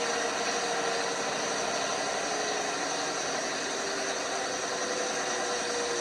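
LG washing machine running: a steady mechanical whir with a motor whine that drifts slightly in pitch.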